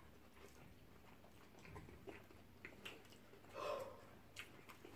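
Faint chewing and mouth noises of people eating shawarma wraps: scattered soft wet smacks and clicks, one a little louder about three and a half seconds in.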